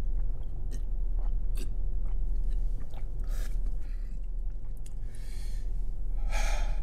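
A man chewing a mouthful of hot chicken wing close to the microphone, with small wet mouth clicks and three short breathy bursts in the second half.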